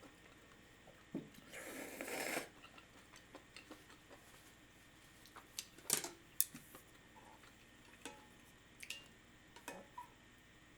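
Quiet eating sounds close to the microphone: a short noisy stretch about two seconds in, then scattered light clicks and taps of dishes or cutlery, the sharpest about six seconds in.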